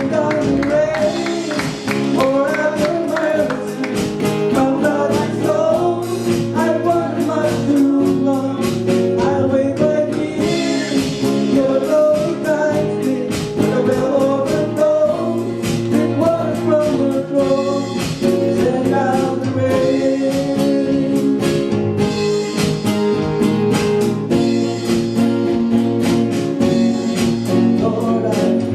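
A gospel song sung by a man, accompanied by a strummed acoustic guitar, with no break.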